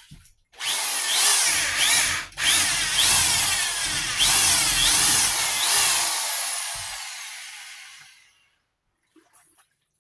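Power drill with an oversized concrete bit boring a drain hole through wood, its pitch rising again and again as it spins up. It stops briefly about two seconds in, then runs on and winds down to a stop near the end.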